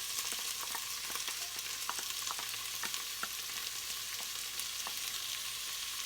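Finely chopped onions frying in hot ghee with whole spices in a pan: a steady sizzle with frequent small crackles and pops.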